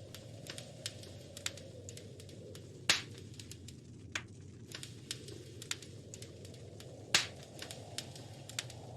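Wood fire crackling in a fireplace: scattered sharp pops and ticks over a low, steady rush, with two louder pops about three seconds and seven seconds in.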